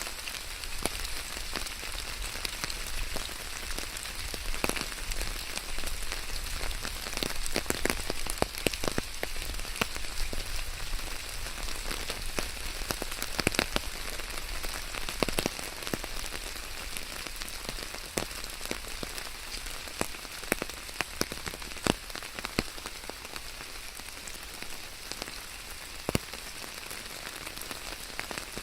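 Steady rain falling, with a constant hiss and many sharp, separate drop hits pattering close by.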